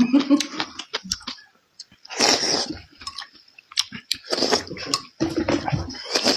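A person chewing food close to the microphone, with many short wet mouth clicks and several longer, louder stretches of eating noise.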